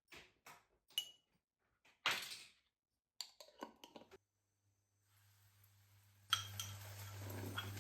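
Light clinks and knocks of household items being handled, like dishes and utensils. About five seconds in a steady electric hum starts and grows louder a second later.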